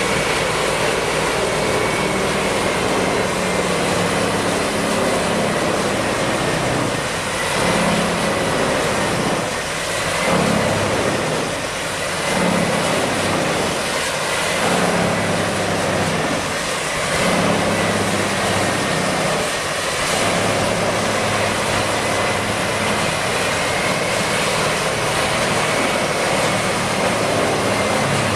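A heavy wood-chipping machine running: a loud, steady engine drone with a thin high whine over it. Through the middle stretch the low engine sound swells and dips every couple of seconds, as if the machine is taking on material.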